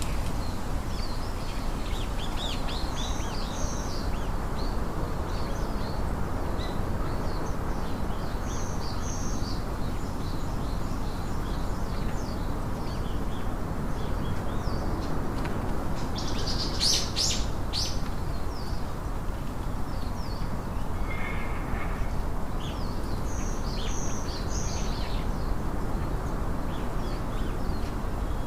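Wild birds chirping and singing in short, high, repeated notes over a steady low background rush, with a louder, sharper burst of calls about two-thirds of the way through.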